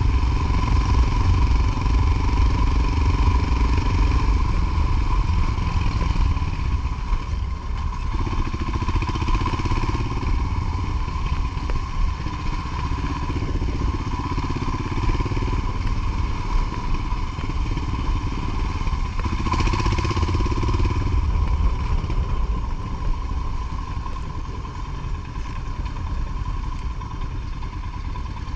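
Motorcycle engine running steadily under way, with a continuous low rumble and a steady tone, easing slightly near the end.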